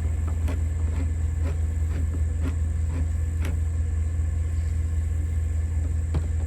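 A manual can opener clicking as it works around a can of chili beans, about two clicks a second for the first few seconds and one more near the end, over a steady low engine hum.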